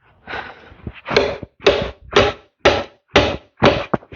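A run of evenly spaced knocks, about two a second, starting about a second in, after a brief faint rustle.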